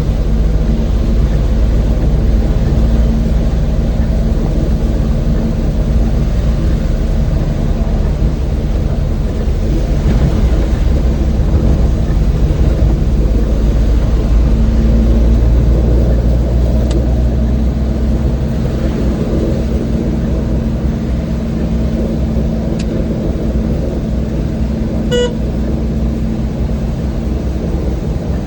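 Old van's engine running steadily with road noise. A short car-horn toot near the end.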